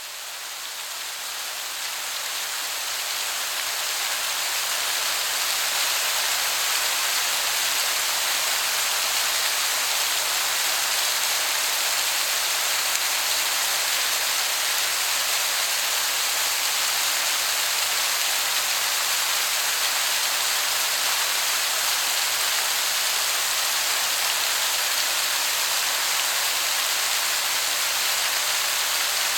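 Waterfall heard from some way off, a steady hiss of falling water that sounds like heavy rain. It fades in over the first few seconds, then holds level.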